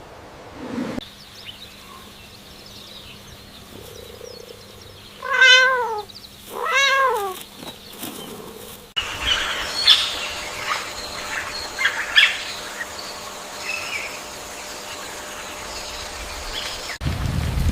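A cat meows twice, about a second apart, each call rising and then falling in pitch. Then come many short high chirps over a steady hiss.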